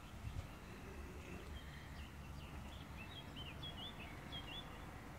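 A small songbird chirping: a quick run of short notes that slide up and down, starting about a second and a half in and stopping near the end, over a steady low outdoor rumble.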